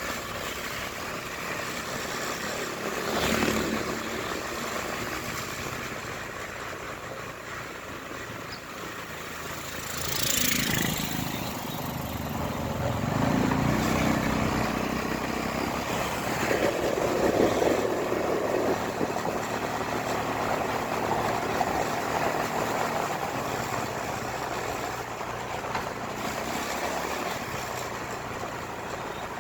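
Motorcycle riding noise: a steady rush of wind and road noise with engine sound, swelling louder a few times.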